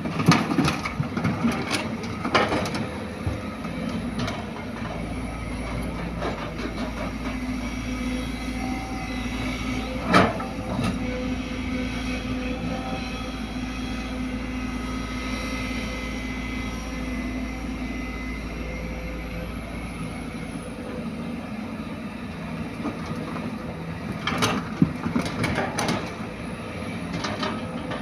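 Heavy earthmoving machinery, an excavator loading a dump truck, with diesel engines running steadily. Sharp knocks and bangs come at the start, about two seconds in, about ten seconds in, and in a cluster about twenty-five seconds in.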